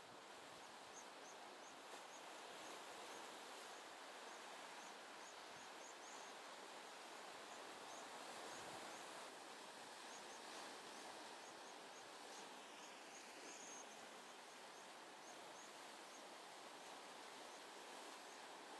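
Faint steady outdoor background noise with a small bird's thin, high chirp repeating two or three times a second, pausing now and then.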